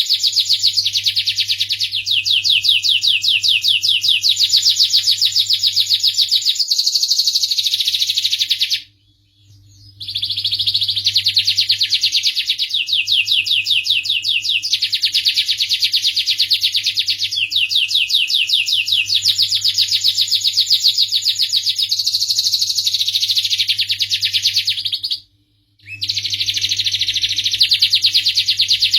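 Domestic canary singing long, loud songs of rapid trills and chirps, breaking off twice for about a second.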